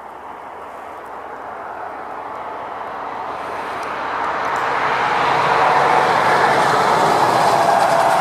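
Road traffic: a passing vehicle's noise swells steadily louder over several seconds and stays loud near the end.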